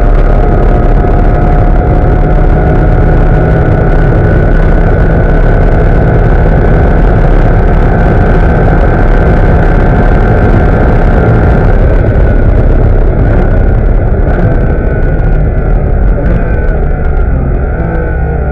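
Porsche Cayman S flat-six engine pulling at full throttle at high speed, heard from inside the cabin along with wind and road noise. About two-thirds of the way through the steady engine note falls away as the driver lifts off and brakes hard for a corner.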